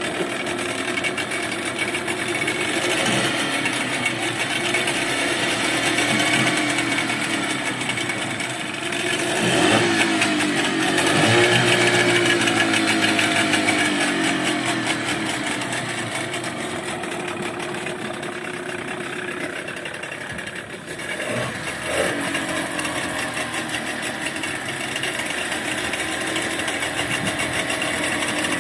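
New speedboat engine running through its warm-up, its speed rising and falling. It revs up about a third of the way in, then settles, with a brief drop in speed about two-thirds of the way through.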